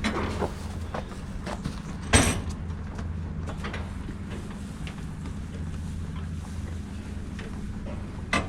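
Engine running steadily, with scattered knocks and clanks; the loudest knock comes about two seconds in and another just before the end.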